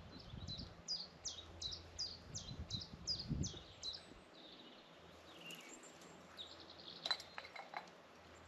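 A songbird singing a run of about a dozen quick notes, each sliding downward, about three a second, with soft low thuds of footsteps on the forest floor beneath. A second, shorter burst of bird calls comes near the end.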